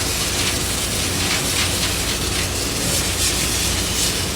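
Compressed air blowing out a ship's open sea bay (sea chest), hissing in irregular gusts over the steady drone of engine-room machinery. The air is used to clear the sea bay while keeping water out of the bilge.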